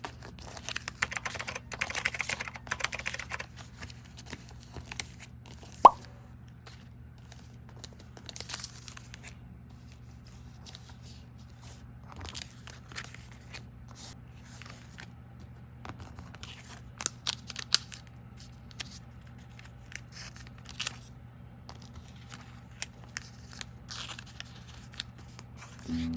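Irregular crinkling, tearing and clicking noises over a steady low hum, busiest in the first few seconds and again past the middle. A single sharp click comes about six seconds in.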